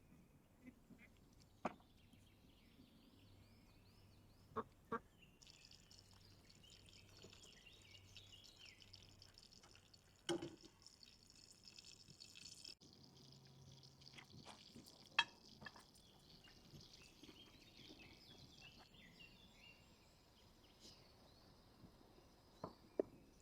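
Faint outdoor ambience with birds chirping, broken by a few separate sharp clicks or knocks.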